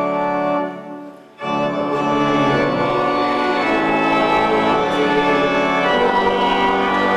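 Church organ playing held chords. A chord is released and dies away about a second in, then the organ comes back in with a new full chord and carries on.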